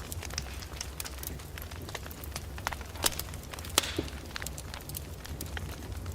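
Wood fire crackling in a fireplace: irregular sharp pops and snaps over a steady low rumble and soft hiss, with a couple of louder pops about three and four seconds in.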